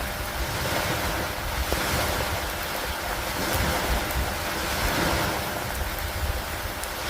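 Steady rain hissing over a lake dock, swelling and easing every couple of seconds, with a low rumble of wind underneath and faint scattered drop ticks.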